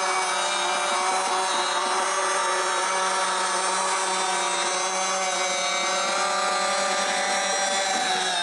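Electric motors and gearing of a remote-control construction machine whining steadily under load, a dense buzzing hum with several high tones held nearly level.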